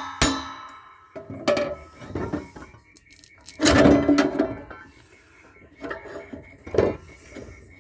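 Metal parts of a solar inverter clanking and rattling as it is dismantled: a last ringing knock just after the start, then scattered clanks, a loud clattering scrape about four seconds in and a sharp clank near seven seconds.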